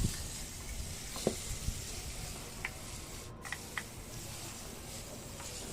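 Faint steady hiss with a few soft, scattered clicks.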